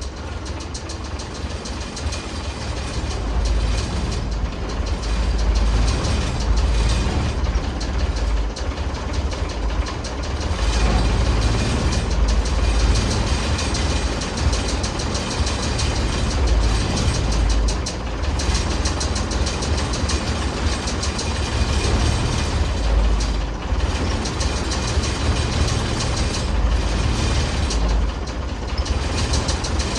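Ford D series 1314 truck's turbocharged diesel engine running steadily after a jump start.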